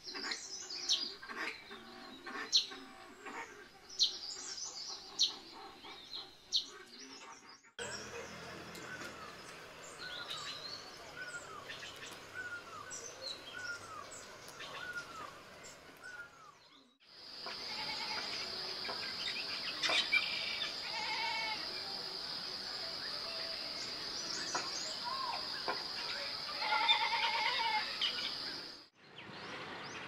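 Wild birds calling in three successive field recordings. First come sharp chirps and clicks. Then a bird repeats a short down-slurred call a little faster than once a second. Last, a steady high whine runs for about eleven seconds under a mix of other bird calls.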